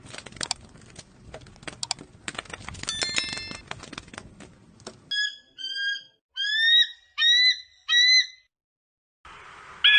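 A rapid run of clicks with a brief ringing chime, then five short, high-pitched animal calls, each rising slightly in pitch, spaced about half a second apart.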